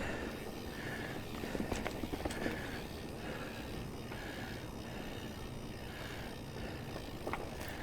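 Mountain biker breathing hard and rhythmically while riding, about one breath every 0.8 seconds, over a steady low rumble of the ride.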